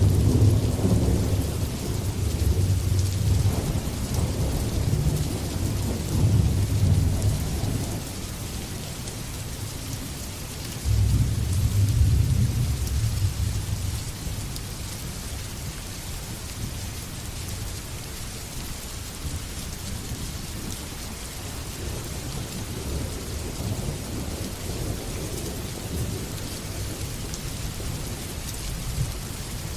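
Steady rain with rolling thunder. A long low rumble runs through the first eight seconds or so, and another starts suddenly about eleven seconds in and fades by about fourteen, leaving the rain alone.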